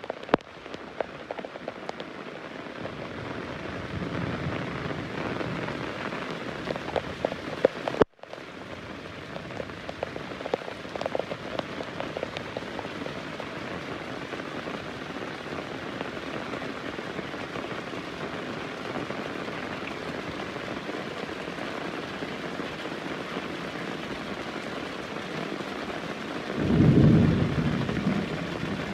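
Heavy rain falling steadily with scattered drips, and rolls of thunder: a low rumble about four seconds in and a louder one near the end. The sound cuts out for an instant about eight seconds in.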